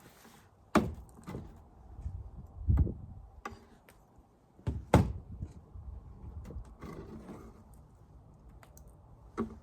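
Wooden beehive frames and hive box knocking together as they are handled: a sharp knock about a second in, a duller thud, another sharp knock about halfway through, and a lighter knock near the end.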